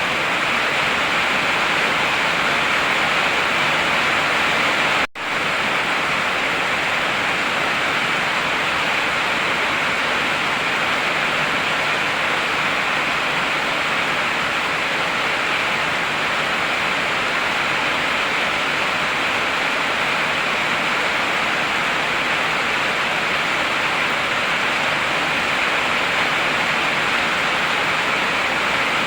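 Heavy rain falling in a steady, dense hiss, with a momentary dropout about five seconds in.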